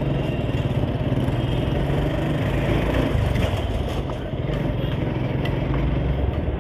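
Suzuki Gixxer SF motorcycle engine running steadily, with road and traffic noise around it.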